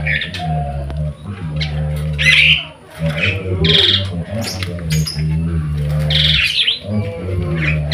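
Caged birds at a bird market calling over and over, with loud harsh calls every second or two, over a steady low hum that drops out briefly twice.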